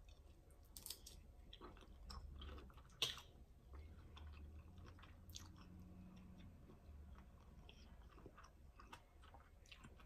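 Faint close-up chewing of a mouthful of shrimp: soft, wet mouth clicks and smacks scattered through, with one sharper click about three seconds in.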